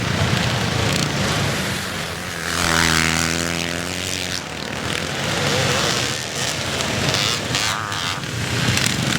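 Classic motocross bikes racing, several engines running hard at once. One bike passes close about three seconds in, its engine note held steady for a couple of seconds before it fades back into the pack.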